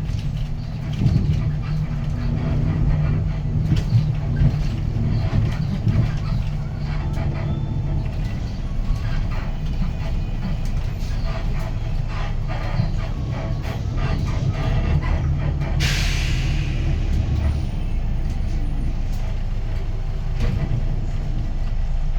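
Hyundai Green City city bus's six-cylinder diesel engine running with road noise, heard from inside the cabin. About 16 seconds in, a short hiss of air from the bus's air brakes.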